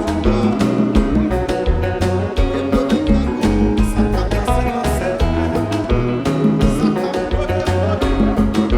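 Live Haitian konpa band playing, with guitar over a steady drum and bass beat.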